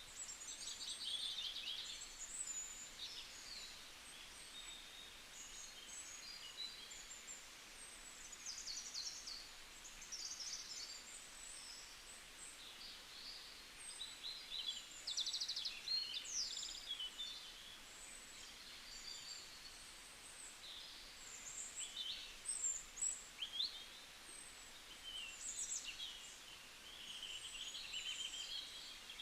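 Several small songbirds chirping and trilling, many short high calls overlapping one another, faint and continuous.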